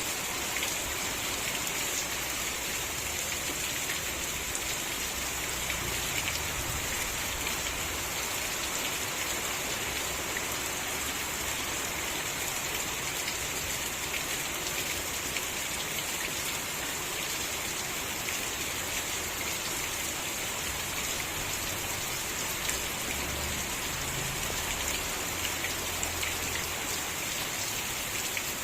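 Steady rain falling, an even hiss with fine scattered drop ticks on surfaces.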